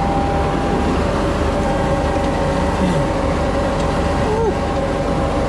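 Tractor engine running steadily under load while pulling a planter, with a steady whine over the low drone.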